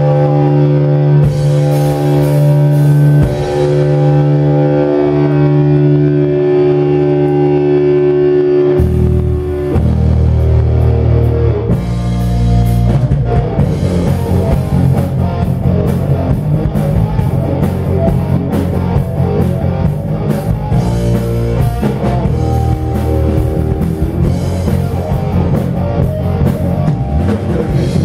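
Rock band playing an instrumental passage: a held chord rings for about nine seconds, then the drums and the rest of the band come in with a steady beat.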